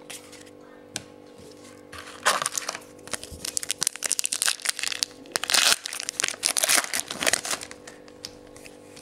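Wrapper of a trading-card pack being torn open and crinkled: a dense run of crackles from about two seconds in until shortly before the end, after a couple of single clicks.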